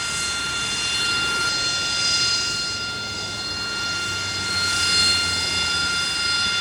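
Aircraft engine running with a steady high whine over a rushing noise that swells and fades twice.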